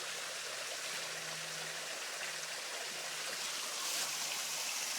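Steady rush of water running in a small creek waterfall, getting a little louder about four seconds in.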